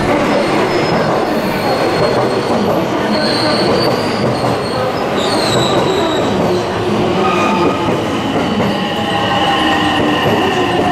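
JR West electric commuter train pulling into the platform and rolling past at low speed: running rumble with high, thin squealing that comes and goes, strongest in the middle and second half.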